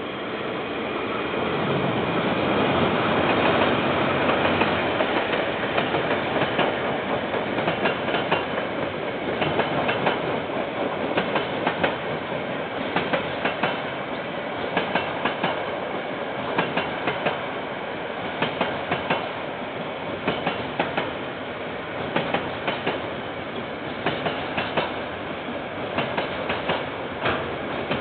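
KiwiRail diesel freight train passing close by. The sound builds over the first few seconds, then the wagons' wheels keep up a steady clickety-clack of sharp clicks over the rail joints.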